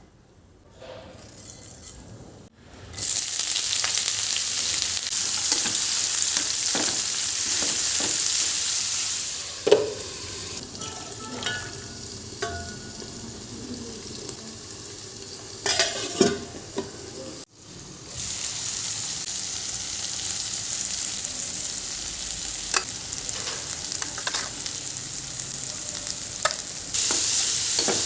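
Food sizzling and frying in a hot pan while a spatula stirs it, knocking and scraping against the pan. The sizzle drops away for several seconds in the middle, leaving mostly utensil knocks, then comes back.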